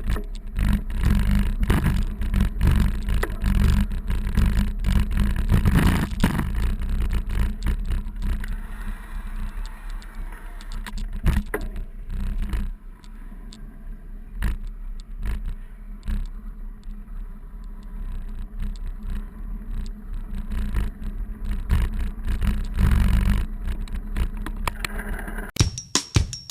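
Bicycle ride filmed on an old GoPro: a steady low rumble with many rattling knocks as the camera shakes over the street surface, easing for a stretch in the middle. Near the end it cuts to music with a drum beat.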